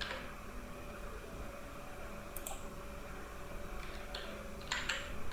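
A few computer keyboard keystrokes, single clicks at first and then several in quick succession near the end, as a password is typed, over a faint steady hum.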